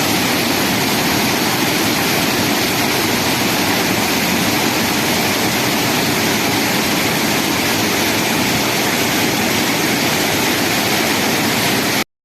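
Steady rushing of falling water, an even, loud roar with no rhythm, cutting off suddenly near the end.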